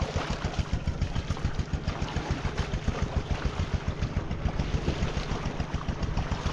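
Small engine running steadily, with an even pulsing beat of about six a second.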